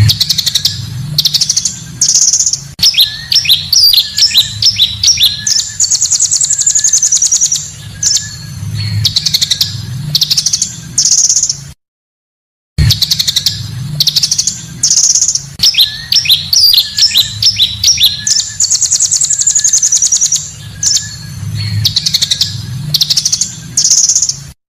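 Recorded song of the pancawarna bird: quick high chirps, fast trills and a long whistled phrase, over a low hum. The same roughly 12-second sequence plays twice, with a second of silence between, as a looped recording does.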